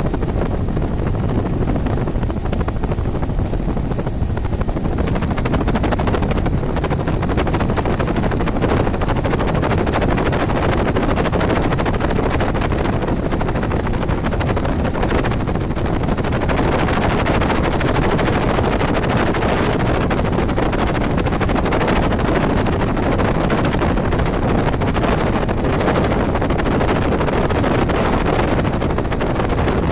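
Helicopter in flight: loud, steady rotor and engine noise.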